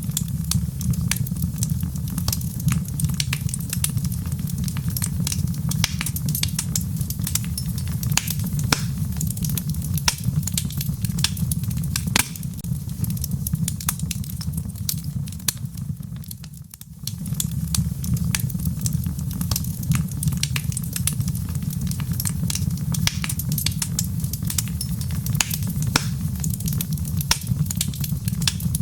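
Wood fire crackling, with many sharp irregular pops and snaps, over a steady low rumble and soft rain patter. The sound drops out briefly about two-thirds of the way through, then resumes.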